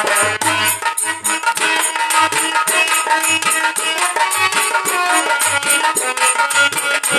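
Instrumental interlude of a Hindi ghazal: a sustained melody instrument over fast, steady shaker-like rattle percussion, with a low drum beat falling about once a second.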